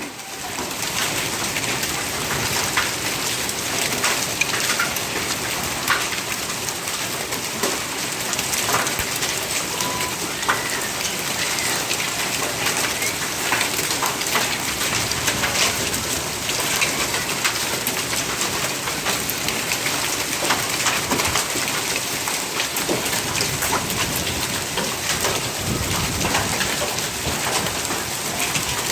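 Hailstorm: hail and rain pelting down in a dense, steady hiss, thick with sharp ticks of hailstones striking surfaces. A low rumble comes in late on.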